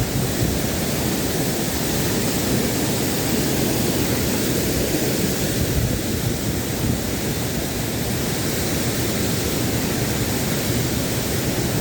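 Steady rushing of a waterfall: continuous falling water that holds an even level throughout.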